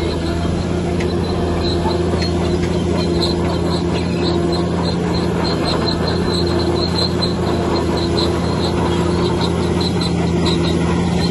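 Bulldozer's diesel engine running steadily, with a quick run of short, high-pitched squeaks repeating a few times a second over the engine.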